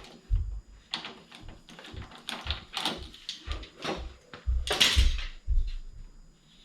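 Clutch centre nut being backed off with a box spanner: an irregular run of metal clinks and knocks from the tool and loose parts, with dull thumps underneath and the loudest clatter about five seconds in.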